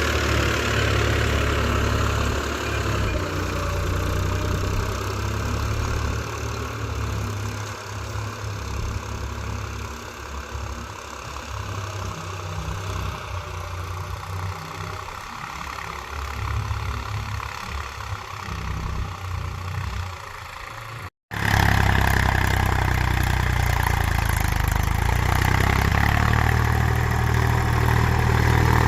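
Mahindra 275 DI TU tractor's three-cylinder diesel engine running steadily, fading gradually over the first twenty seconds. The sound cuts out abruptly about two-thirds through and comes back louder, the engine running on steadily.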